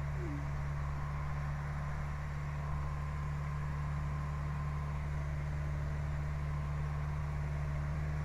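Steady drone of a light aircraft's piston engine heard from the cockpit in flight, with a constant low hum and no breaks or surges.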